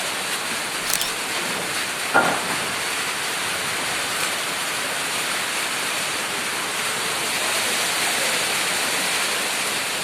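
Heavy rain pouring steadily in strong wind, a continuous dense hiss. A sharp tap sounds about a second in and a louder thud a second later.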